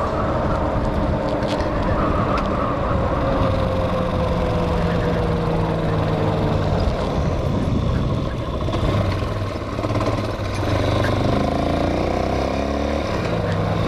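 Hawk 250 motorcycle's single-cylinder engine running on the road under the rider. Its pitch falls slowly through the first half as the bike eases off, then climbs again near the end as it speeds up.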